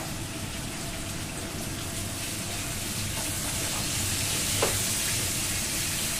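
Chopped garlic, onion and tomato sizzling in oil in a wok while being stirred with a spatula, growing slightly louder, with one light knock about four and a half seconds in.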